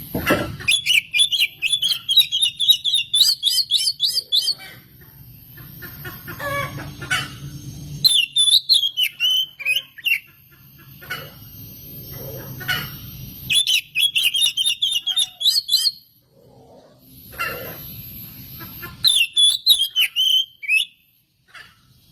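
Oriental magpie-robin (kacer) singing in four bursts of rapid, varied whistles and chattering notes, each a few seconds long, with short pauses between.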